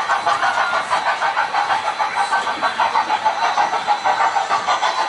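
Ride vehicle running with a steady mechanical noise that pulses fast and evenly.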